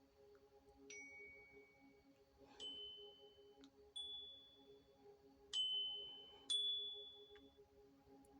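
Five bright, bell-like dings at different pitches, each struck sharply and ringing out before fading, the last two the loudest, over a faint steady low hum of held tones.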